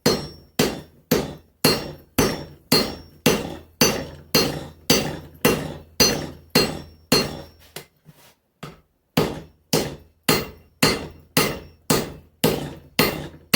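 Hand hammer blows on a red-hot axe blank on the anvil, about two a second, each with a bright ring from the anvil and steel. There is a brief lull just past the middle, and a steady low hum runs underneath. This is a forge weld being set on a welding heat, the mild-steel body being hammered together onto itself.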